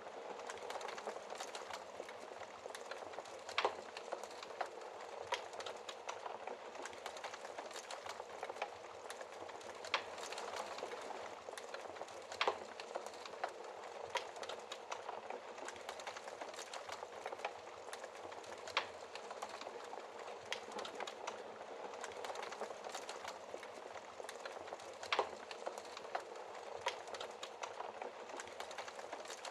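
Wood fire burning in a fireplace: a steady crackle and hiss with a sharp pop every few seconds, the loudest about twelve seconds in.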